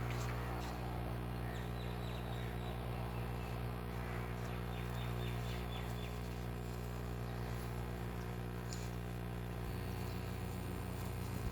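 A steady low buzzing hum, unchanging in pitch, with a faint pulsing in it from about ten seconds in.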